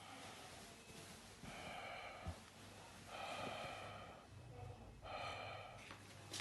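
A sleeping person's heavy breathing: three long, noisy breaths about two seconds apart.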